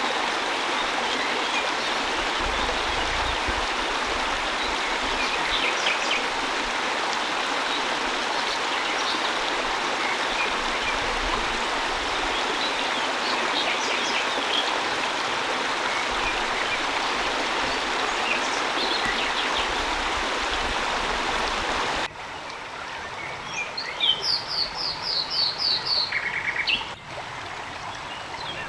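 Steady hiss of heavy rain with faint bird chirps over it. About three-quarters of the way through, the rain noise cuts off abruptly, and a bird sings a quick run of about six high notes followed by a short lower trill.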